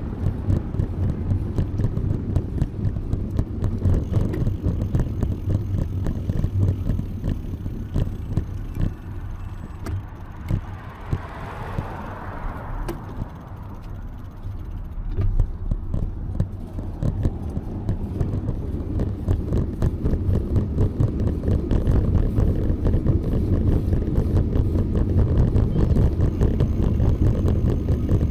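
Wind rumble on the microphone and road noise from riding a bicycle, with small rattling clicks throughout. A brief swell of higher-pitched sound passes around the middle.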